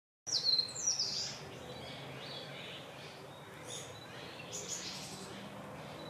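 Wild birds calling in woodland: two loud, sharp descending calls in the first second, then scattered fainter chirps over a steady background hiss.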